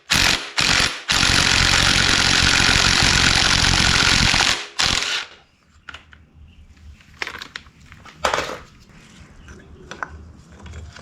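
A power tool runs loudly in two short bursts, then steadily for about three and a half seconds before stopping sharply. A few quieter clanks of metal parts being handled follow.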